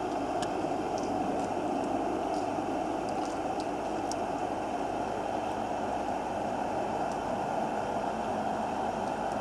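Steady low rumble of a distant train on the line, with a few faint ticks above it.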